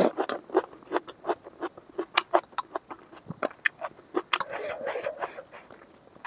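Chewing a mouthful of food, with crisp wet mouth clicks and crunches several times a second.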